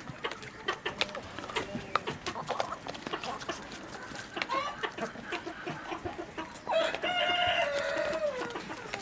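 Chickens clucking amid scattered sharp clicks, and a rooster crowing once near the end: one long call of nearly two seconds that drops in pitch as it ends.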